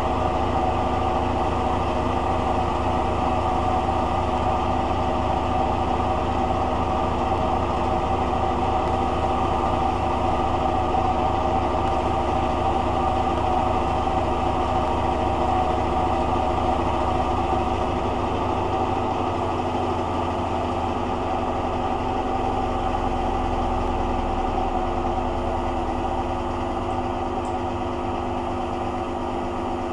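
Hoover Dynamic washing machine running its rinse cycle: a steady motor hum with a pulsing low end that changes slightly about 18 seconds in.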